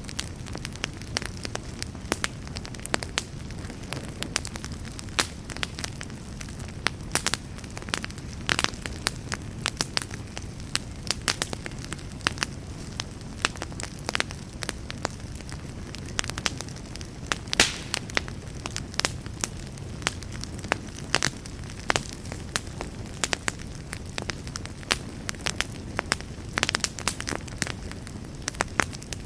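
Campfire burning with a low steady rumble of flames and frequent irregular crackles and pops of burning wood.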